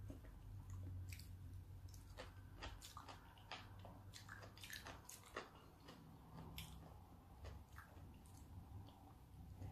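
Faint close-up chewing of raw salmon sashimi: soft, wet mouth clicks and smacks scattered irregularly, over a low steady hum.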